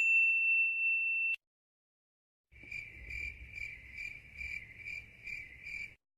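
A high, steady electronic beep that cuts off abruptly about a second in. After a short silence comes a cricket-chirping sound effect, the kind used to mark an awkward silence: a high chirp pulsing about twice a second over a faint low rumble.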